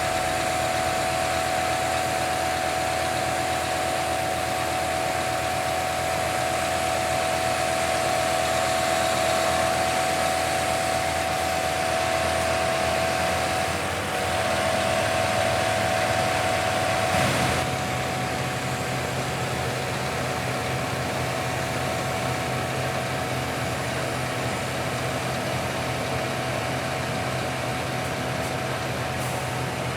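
Scania P280 crane truck running steadily, with a high steady whine over the engine. About seventeen seconds in the whine stops and a lower steady hum carries on, a little quieter.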